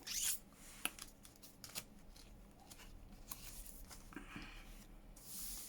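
Faint handling of paper and journal pages: scattered light taps and clicks with a few short paper rustles, the longest about a second before the end.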